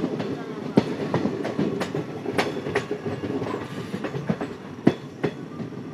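Passenger train coach running along the track: a steady rumble with irregular sharp clicks and knocks of the wheels over rail joints.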